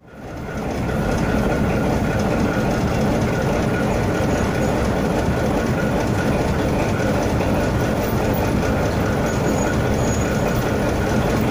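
Train running on the rails, heard from inside a moving carriage: a steady rumble with a faint high whine held through it. It fades in over the first second.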